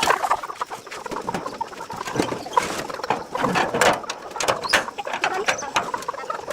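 Live chickens clucking and calling, with scattered sharp clicks and knocks from their handling.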